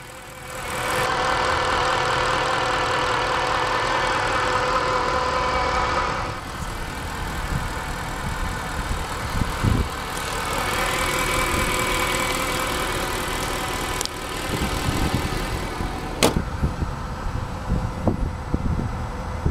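Hand-built 6.3-litre naturally aspirated V8 of a 2013 Mercedes C63 AMG idling steadily, heard with the hood open; its level shifts a few times. A sharp click sounds about three-quarters of the way through.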